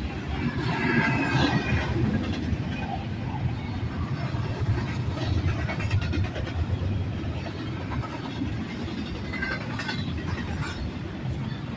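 Double-stack intermodal train's well cars rolling past: a steady rumble and clatter of steel wheels on rail, with brief higher-pitched scraping about a second in and again near the end.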